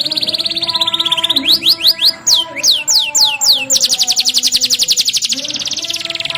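Domestic canary singing a fast rolling song. It opens with a rapid trill and a run of quick downward-sweeping notes. About four seconds in comes a long, very fast roll of repeated notes lasting a couple of seconds, and it ends with more sweeping notes.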